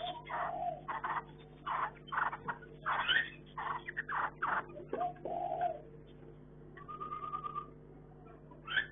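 Chinese hwamei calling: a quick run of short, varied notes for about six seconds, then a brief even trill and one sharp note near the end. A steady low hum runs underneath.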